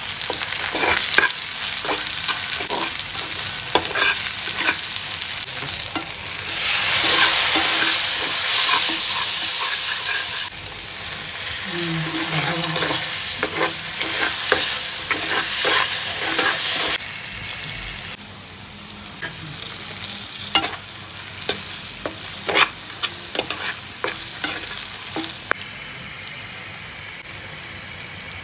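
Onions and spice powders frying in oil in a black iron pan and sizzling, stirred with a metal spatula that scrapes and clacks against the pan as they cook down into a curry masala. The sizzle is loudest a few seconds in and quieter in the second half.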